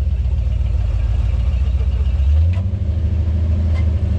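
A large truck engine running steadily at low revs, with the engine note shifting a little over two seconds in.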